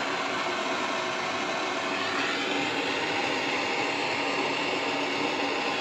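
Soldering torch flame burning steadily with a continuous hiss, heating a copper pipe joint so the solder will flow.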